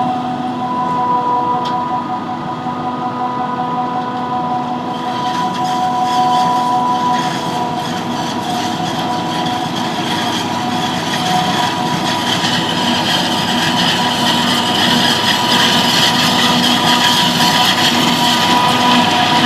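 Farm machinery running steadily with an even mechanical whine, joined after about five seconds by a rushing noise that grows stronger.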